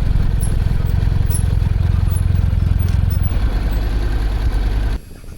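Motorcycle engine running at low revs close to the microphone, a loud, steady low pulsing that cuts off abruptly about five seconds in.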